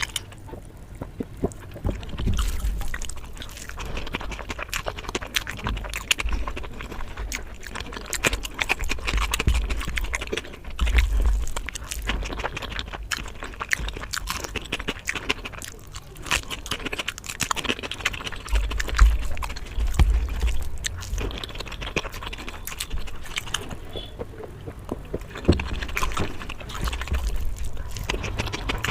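Close-miked eating sounds: a person chewing and smacking food, with many irregular short mouth clicks and a few low thumps.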